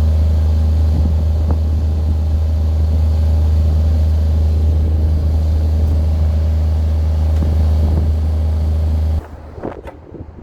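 A large engine running steadily with a deep, even hum, which cuts off suddenly about nine seconds in, leaving a few light metallic knocks.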